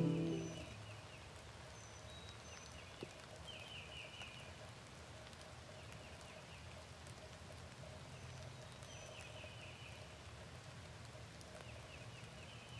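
Faint rain ambience sound effect, an even patter, with short high chirping trills of an animal recurring every few seconds. Background music fades out in the first half second.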